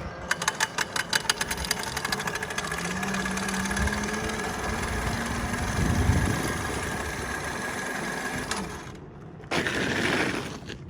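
Dirt bike being ridden, its motor giving a steady low whine that rises in pitch about three seconds in and holds. Rapid clicking in the first two seconds.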